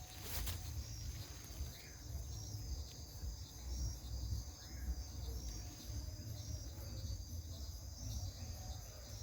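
Insects chirping steadily in a high-pitched, pulsing trill, with a few short rising chirps every few seconds over a low rumble.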